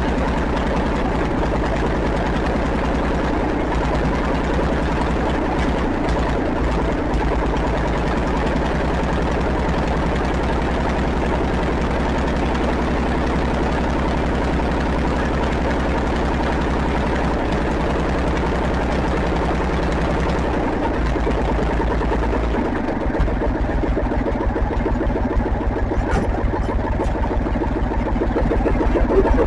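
International 2400 tractor engine running on its own after years of sitting, just brought back to life with starting fluid. It idles steadily, then about three-quarters of the way through turns louder and more uneven.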